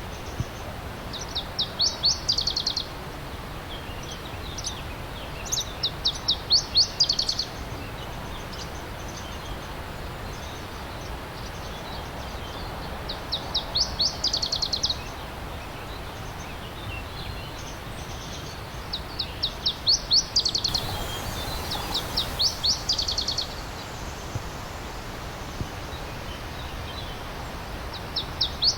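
A songbird singing short, rapid trills of high down-slurred notes, five phrases spaced a few seconds apart, over the steady rush of a stream.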